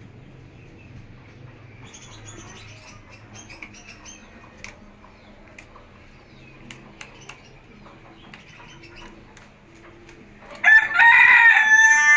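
Rooster crowing loudly near the end: one long call held at a steady pitch. Before it, quiet scattered chirps and clicks.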